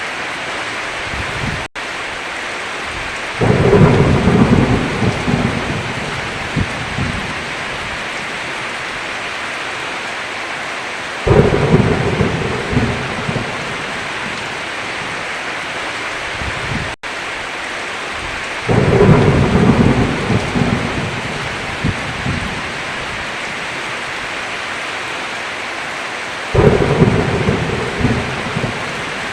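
Heavy rain falling steadily, with four rolls of thunder, each starting suddenly and rumbling away over a few seconds, about every seven to eight seconds. The sound drops out for an instant twice.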